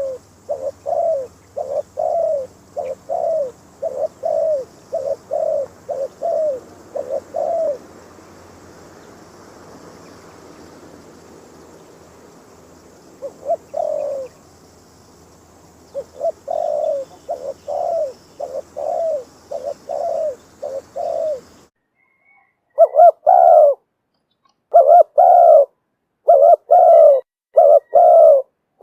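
Spotted dove cooing: runs of short, repeated coo notes at about two a second, with a pause of several seconds in the middle. Near the end the cooing becomes louder and cleaner, in short clusters.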